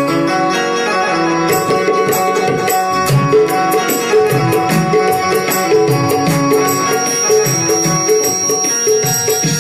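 Instrumental bhajan music: a sustained melody line over tabla. The tabla comes in with a dense, steady rhythm about a second and a half in.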